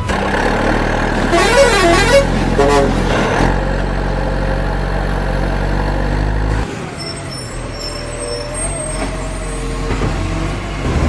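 A truck engine running steadily, with a wavering horn-like tone about two seconds in. The engine noise drops away about two-thirds of the way through.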